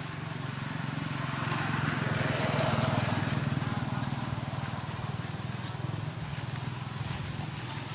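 An engine running steadily, with a noisy swell that grows to a peak about three seconds in and then eases off.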